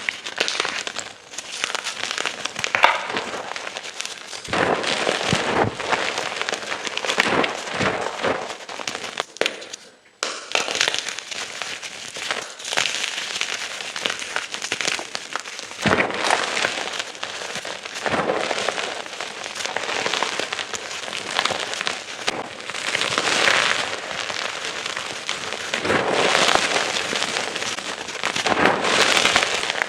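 Close-up crunching and crumbling of blocks and chunks of gym chalk, a dense run of crisp crackles as the chalk breaks apart. It stops briefly about ten seconds in, then carries on.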